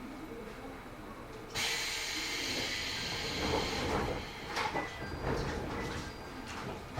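Pneumatic doors of a Matsumoto Electric Railway 3000-series train closing: a sudden loud rush of compressed air starts about a second and a half in and lasts about two and a half seconds, followed by several knocks and clunks as the doors shut.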